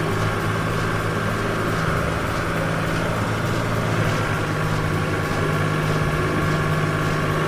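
A heavy vehicle's engine running steadily at idle, a low even hum with no change in speed.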